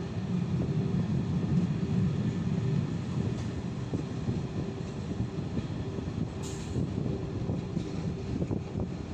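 Czech-built passenger coach rolling along a single-track line, heard from its window: a steady low rumble of wheels on rail, with a brief high hiss about six and a half seconds in.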